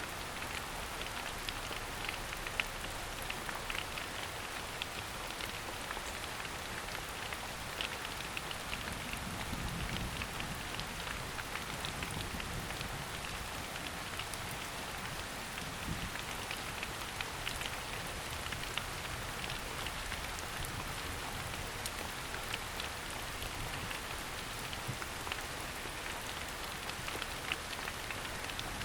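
Steady rain falling on forest foliage, a continuous hiss with many small drips and patters of drops.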